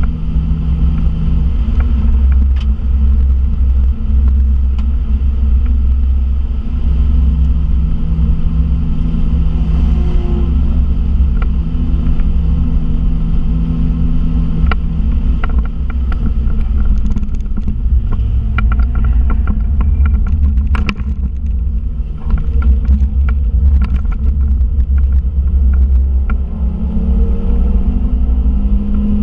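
VW Polo Mk2 (86c) engine heard from inside the cabin on a fast track lap: a steady loud drone with deep rumble and road noise, scattered clicks and rattles in the middle, and the revs climbing near the end.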